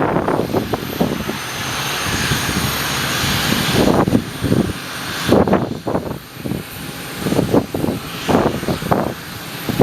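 Airliner engine noise that swells over the first few seconds, mixed with strong gusts of wind buffeting the microphone in irregular thumps.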